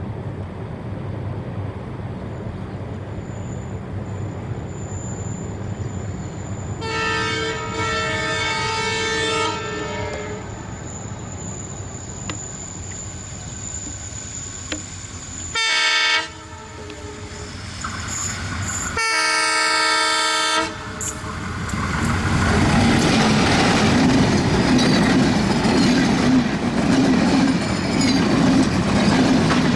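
ALCO WDM-3A diesel locomotive approaching with its engine rumbling and sounding its horn three times: a long blast, a short one, then a medium one. About 22 seconds in, the locomotive and its coaches pass close by, the louder rush of the train with wheels clacking over the rail joints.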